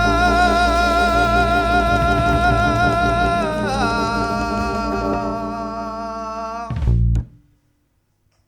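Blues band's ending: a long held note with vibrato over the bass and drums slides down in pitch partway through and slowly fades. The band then hits one final accent, and the music stops.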